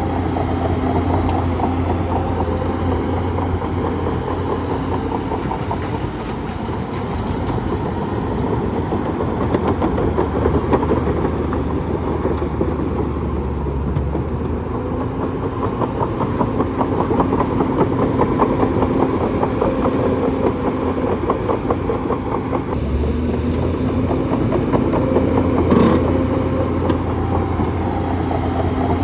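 Bulldozer's diesel engine running steadily, with a short knock near the end.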